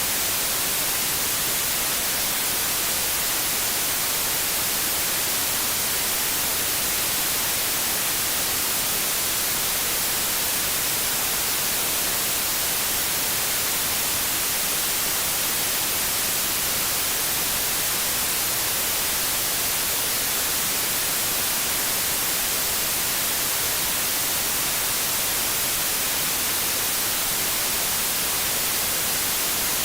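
Television static: a steady, even hiss of white noise, strongest in the treble, with no change throughout.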